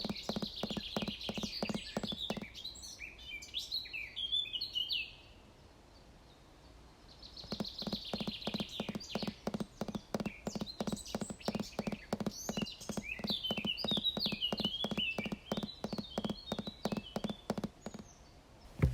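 Footsteps walking a trail in a steady rhythm, stopping for a couple of seconds about five seconds in and then going on, with songbirds singing.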